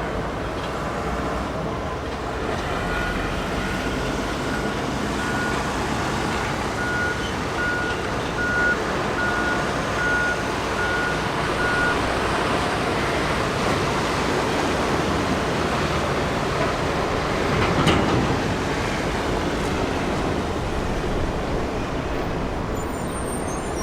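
Steady roar of a jet airliner, swelling to its loudest about three quarters of the way through. Through the first half a thin electronic beep repeats about once a second.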